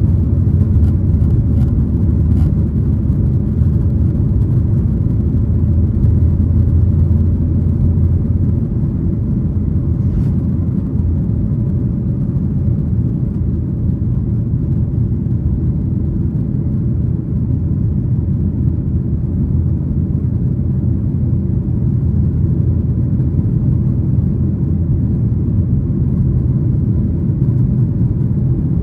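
Steady low rumble of a Boeing 737-900ER's CFM56-7B jet engines and airflow, heard from inside the passenger cabin, with a faint steady tone above the rumble.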